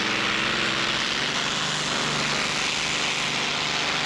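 Modified pulling tractor's engine, rated at about 1,400 horsepower, running at high revs under full load as it drags the weighted sled, a loud steady roar with a fixed engine note. The engine is not running happily, and the driver soon shuts it down.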